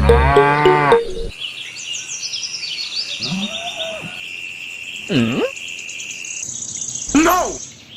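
Cattle mooing several times in short calls, over a background of steady high bird or insect chirping.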